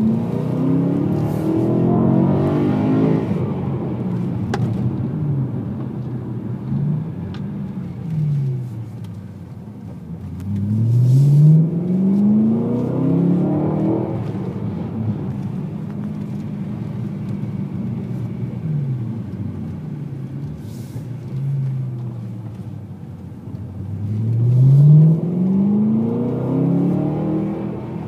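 BMW M3 engine heard from inside the cabin, accelerating hard out of hairpin bends. The pitch climbs steeply three times, near the start, about ten seconds in and near the end, then falls away and rises again in smaller swings as the car slows and shifts between bends.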